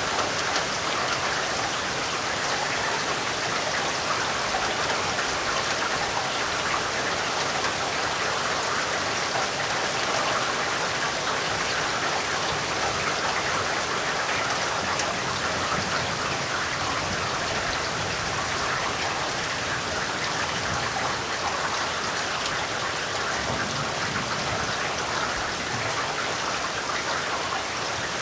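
Steady rainfall: an even hiss of rain with many fine drop impacts, unchanging in strength.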